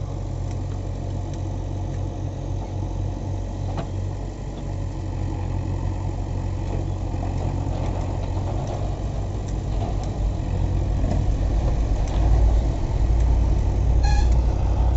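JCB 3DX backhoe loader's four-cylinder diesel engine running steadily with a low rumble that grows louder about twelve seconds in.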